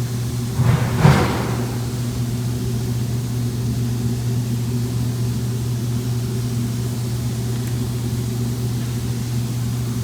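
Steady machine hum, low and even, with a short burst of noise about a second in.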